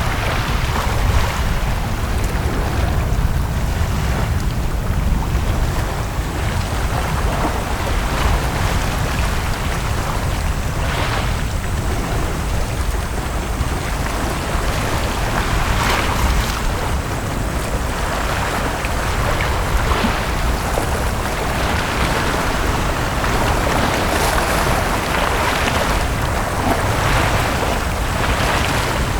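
Sea waves washing onto a beach, each wash swelling up every few seconds over a steady low rumble of wind on the microphone.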